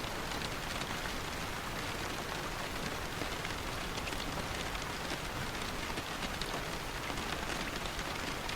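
Steady rain falling, with faint scattered drop ticks over an even hiss.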